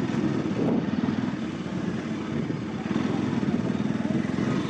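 Bajaj Pulsar NS200's single-cylinder engine running steadily while riding, with a steady rush of wind noise over it.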